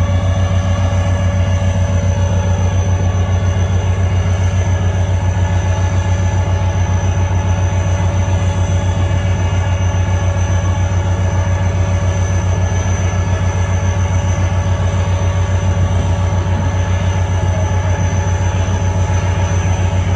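3000 hp HGMU diesel-electric locomotive's engine running steadily, a deep, rapid, even throb with a faint steady whine above it.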